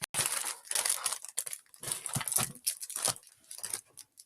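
Plastic snack wrapper crinkling as it is handled, in irregular bursts.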